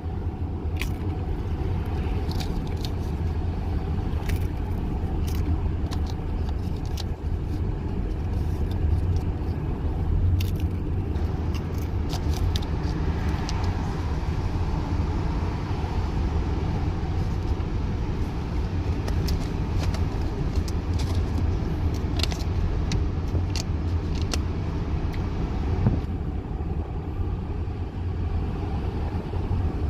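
Car cabin road noise while driving with a window down: a steady low rumble with wind and tyre hiss, and scattered short clicks throughout.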